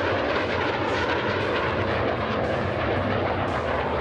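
Airplane engine running steadily as the aircraft makes a fast pass.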